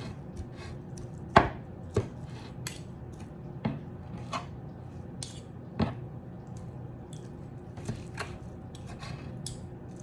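A knife cutting cooked chicken breast on a chopping block: irregular sharp knocks of the blade on the block, a few seconds apart, the loudest about a second and a half in.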